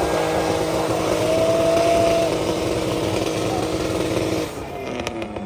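A car engine held at high revs, running steadily, then cutting off about four and a half seconds in, followed by a few short clicks.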